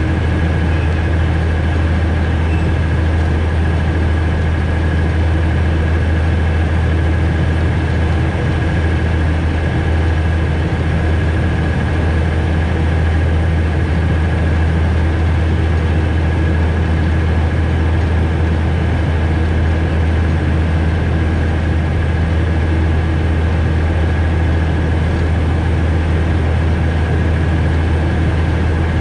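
Steady low drone of a narrow-gauge forest railway train heard from the driver's cab, with a faint steady whine above it and no change in pitch or level.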